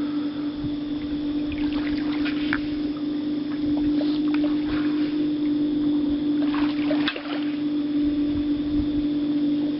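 Steady motor hum on a small flats boat drifting through very shallow water, with a few light splashes and water noises over it.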